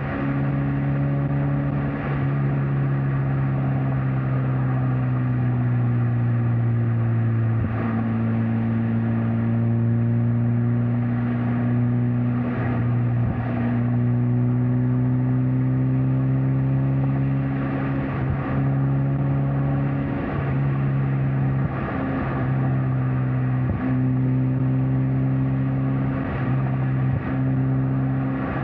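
Mazda MX-5 Miata NC's four-cylinder engine and exhaust running at a steady cruise, the engine note holding near one pitch, with tyre and wind noise and a few short thumps from the road.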